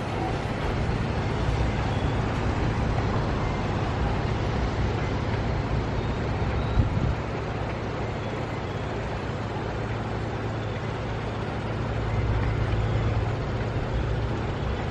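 Vehicle running with a steady low drone and a noisy rush, with one sharp knock about seven seconds in.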